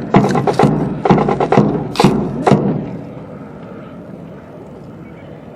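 Sharp clacks and thuds from a rifle drill team handling their rifles in unison, about eight loud strikes in the first two and a half seconds, several slightly ragged where the rifles are not quite together, then outdoor crowd background.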